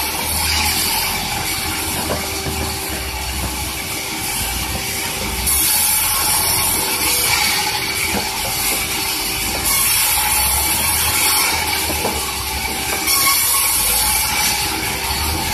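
Sawmill saw running steadily as it cuts through a large durian log, the cut getting louder and hissier three times for a couple of seconds each.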